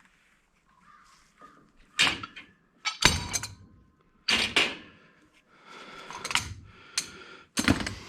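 Irregular hard knocks and clanks of metal tools and angle-grinder parts being handled and struck on a workbench, about half a dozen sharp hits with a brief ringing after some of them.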